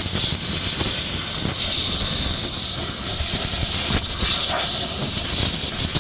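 A loud continuous hiss of a pressurised jet of gas, swelling and dipping slightly but never stopping.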